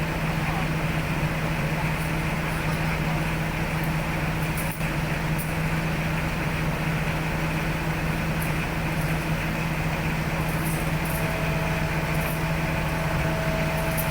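Heavy diesel engine running steadily, with a constant low hum. A faint steady whine joins about eleven seconds in.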